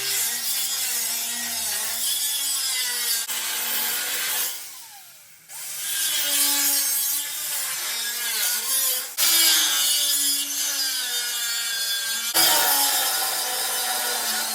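Angle grinder with a cut-off disc cutting through the steel frame of an old tractor: a loud abrasive hiss over a motor whine that wavers under load. About four and a half seconds in it dies away with a falling tone, then the cutting starts again, with fresh bites near nine and twelve seconds.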